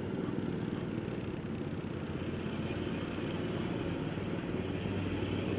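Honda Supra X motorcycle engine running steadily while riding, with a fast, even firing pulse under road and wind noise.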